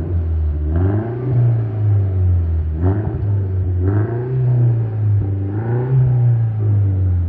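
Mercedes C300's engine idling and being revved in about four short blips, the pitch rising with each blip and settling back.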